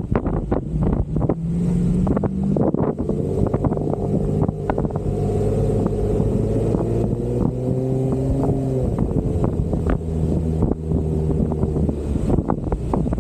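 Jeep Wrangler engine running under load off-road, its pitch climbing about four seconds in and dropping back about halfway through, with frequent knocks and rattles from the vehicle over rough ground.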